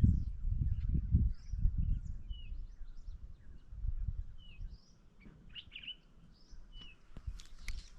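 Small birds chirping in short, repeated calls over a low, uneven rumbling noise that dies away about halfway through; a few sharp clicks near the end.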